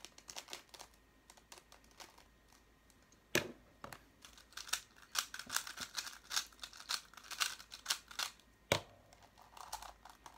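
Plastic twisty-puzzle cube being scrambled by hand: rapid clacking of its layers turning, thickest through the middle, with two sharper knocks, one about three seconds in and one near the end.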